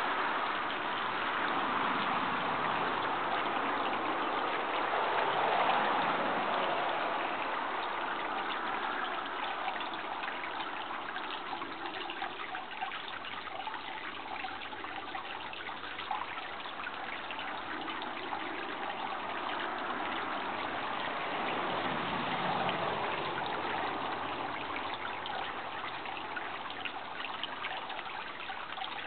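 Steady running water, a trickling, stream-like wash that swells and eases gently in level.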